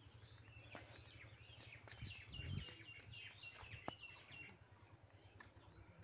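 Faint birdsong: a bird repeating short, high, falling notes, in a quick run in the middle, over a low steady rumble, with a few soft knocks.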